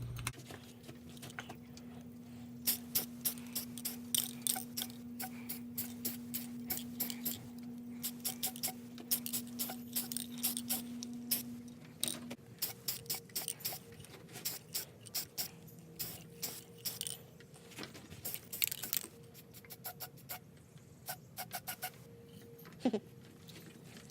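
A fan's hum cuts off at the start. Then an aerosol spray paint can is worked: its mixing ball rattles in quick clusters of clicks, with short hisses of spray, one longer spray a little past halfway.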